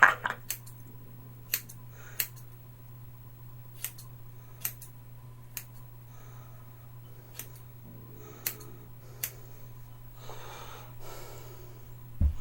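Hair-cutting scissors snipping hair: about ten single, crisp snips at irregular gaps of roughly one to two seconds, with a soft rustle of hair being handled near the end.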